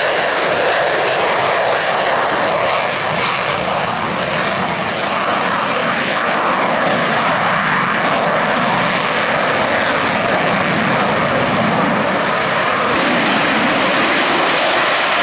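Jet noise from Blue Angels F/A-18 Super Hornets in flight: a loud, steady rush. Its tone changes abruptly about two seconds before the end, where the footage cuts.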